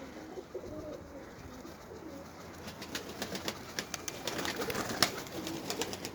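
Domestic pigeons cooing close by, in wavering low calls. From about halfway through, a run of sharp clicks joins in, the loudest one about five seconds in.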